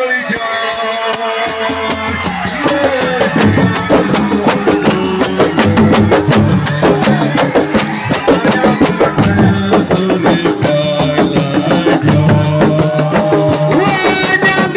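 A live band playing fast, drum-heavy music with a strong bass pulse. The drumming grows denser and louder about two seconds in.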